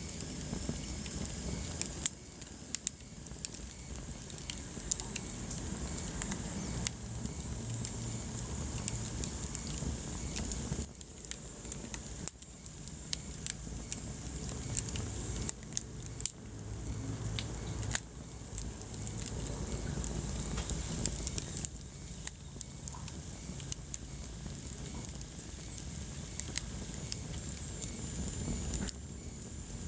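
Wood fire burning in a fireplace: a steady low rumble of flames with frequent sharp crackles and pops of burning logs.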